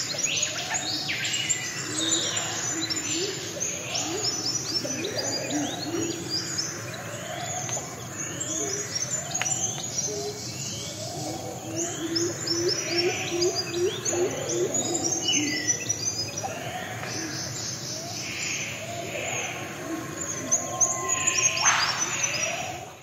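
Birds chirping and calling over one another, with many short, repeated chirps at several different pitches.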